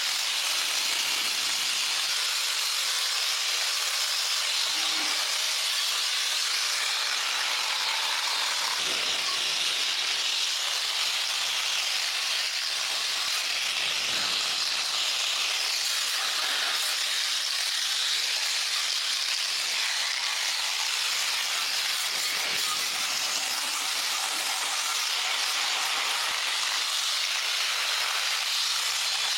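A steady, even hiss that runs unbroken and at a constant level.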